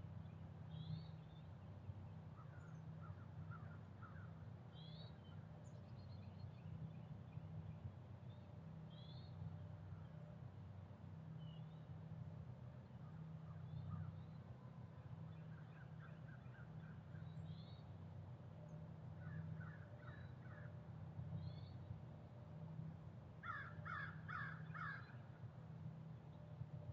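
Faint bird calls: scattered short chirps and quick runs of four or five clipped notes, the loudest run near the end, over a steady low hum.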